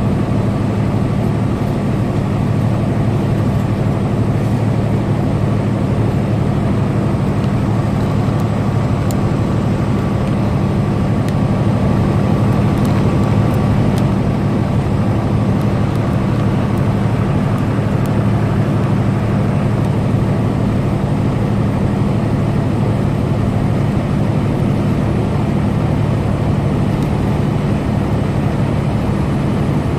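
Truck engine running steadily at highway cruising speed, a constant low drone mixed with tyre and road noise.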